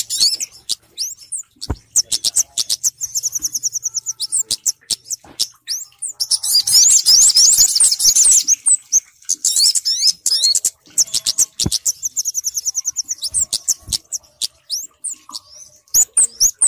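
Bird-lure recording mixing the calls of two small songbirds, the kemade and the sogok ontong: rapid, high-pitched trills and sharp chirps, with a dense stretch of overlapping chirping around the middle.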